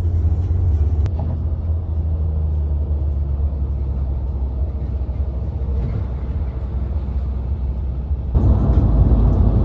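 Steady low rumble of car engines and exhausts, turning louder and fuller about eight seconds in.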